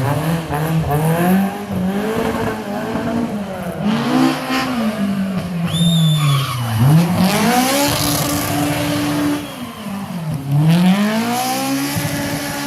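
Datsun 1200 fitted with a Honda S2000's F20C two-litre four-cylinder engine, driven hard: the revs climb and drop again and again through gear changes and lifts. There is a short high squeal about six seconds in.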